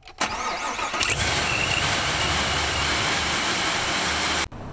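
Supercharged car engine starting, then running loud from about a second in, with a steady high whine over it. It cuts off suddenly near the end.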